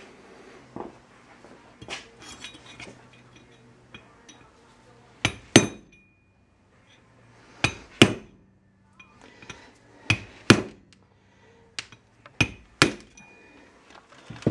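Hammer striking a steel drift to knock a seized kingpin bushing out of a truck's front spindle. There are a few light taps first, then four pairs of sharp, ringing metal blows. The bushing is breaking out in chunks rather than pressing free.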